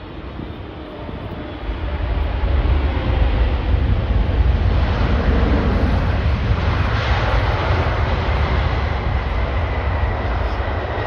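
Jet airliner's engines passing close by, a heavy rumble with a broad roar that swells about two seconds in and stays loud, faint whining tones running through it.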